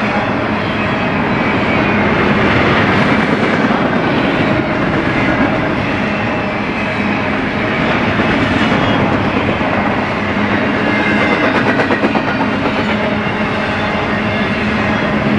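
Double-stack intermodal freight cars rolling past: a steady rumble of steel wheels on rail, with faint high ringing and a quick run of clicks about three-quarters of the way through.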